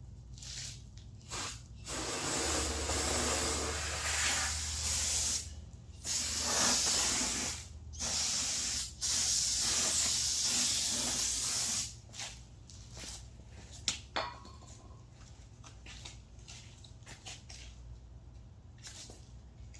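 Aerosol can spraying in several hissing bursts of one to three seconds each, then stopping, followed by a sharp click. It is typical of flammable spray being applied around a tire bead before seating it with fire.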